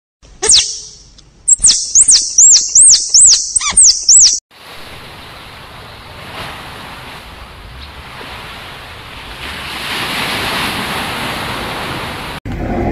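A red squirrel's sharp, high-pitched chirping calls, about seven quick rising-and-falling chirps over four seconds. They are followed by a steady rushing water sound, like waves or underwater ambience, that swells slightly near the end.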